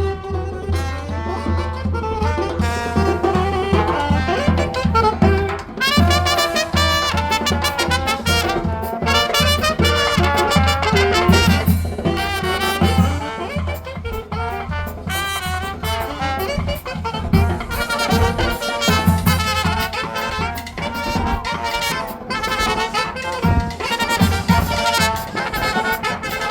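Brass band playing live: horn lines over a steady low bass and a regular drumbeat.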